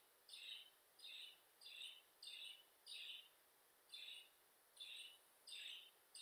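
A bird chirping over and over, faintly: short, high chirps about every two-thirds of a second, with a brief pause a little past halfway.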